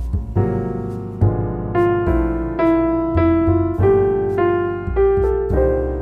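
Background piano music: a slow melody of ringing notes, a new one about every half second, over deep bass notes.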